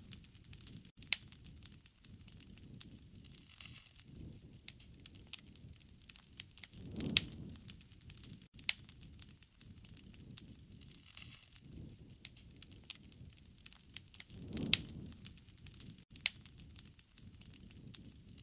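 Wood fire crackling, with frequent sharp pops and snaps of burning wood. A low rush of flame swells up twice, about seven seconds in and again near the end.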